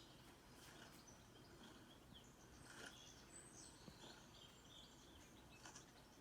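Faint bird chirps and calls from a bird video playing on a laptop, scattered short high notes over a low steady hiss.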